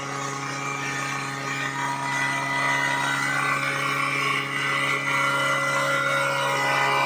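Portable fire pump engine running steadily.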